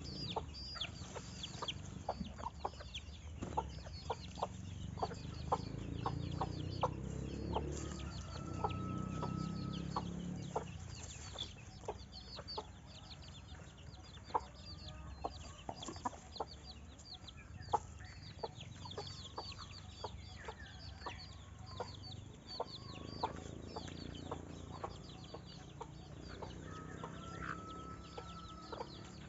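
Chickens clucking, many short calls in a row, with a steady high twittering of small birds behind them.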